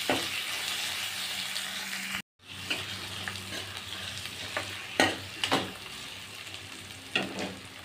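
Tomatoes, onions and green chillies sizzling in hot oil in a kadai while being stirred with a spatula. The spatula scrapes and knocks sharply against the pan a few times in the second half. The sound cuts out for a moment about two seconds in.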